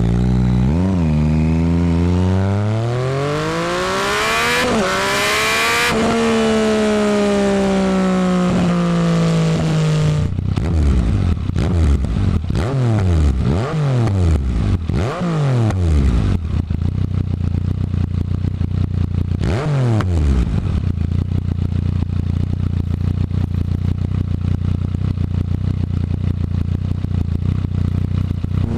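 Yamaha FZ-09's 847 cc inline-three engine breathing through a Delkevic full exhaust system. It climbs steeply in pitch for about six seconds and falls away slowly, then gets several quick revs. After that it settles into a steady idle, with one short rev near the middle.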